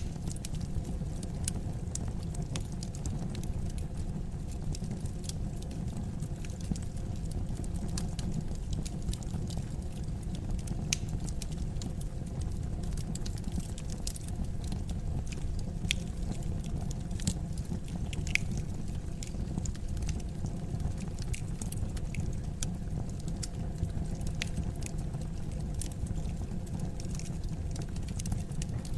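Wood fire crackling in a fireplace: a steady low rumble of burning with frequent small, sharp pops and snaps scattered irregularly throughout.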